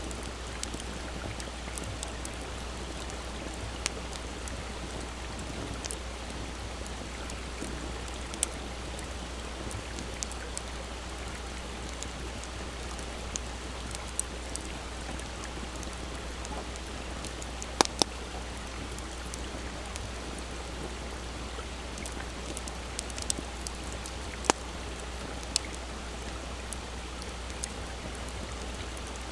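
Wood campfire crackling, with sharp pops scattered irregularly throughout and the loudest pair about two-thirds of the way in, over the steady rush of a small stream.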